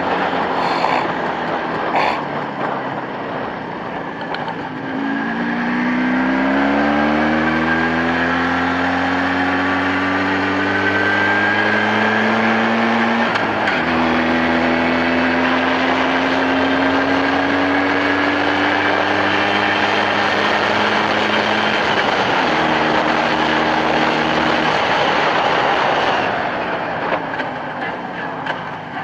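Jawa 634 two-stroke twin engine running under steady throttle, its pitch climbing slowly, dropping sharply about halfway through, climbing again, then changing once more and easing off near the end, a pattern typical of shifting up through the gears.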